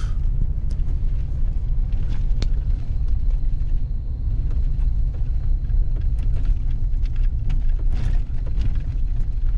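A vehicle driving slowly, heard from inside the cab: a steady low rumble with scattered small knocks and rattles.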